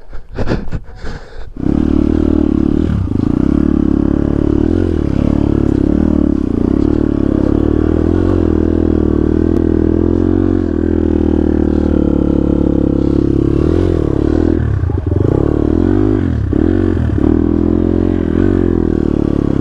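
A few short knocks, then a dirt bike engine comes on about two seconds in and runs steadily, its pitch dipping and rising a few times near the end as the throttle is worked.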